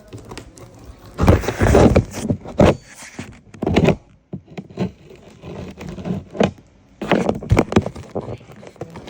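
Irregular knocks, thumps and scraping from handling and opening the packaging of a new microwave oven. Several louder clusters come about a second in and again near the end.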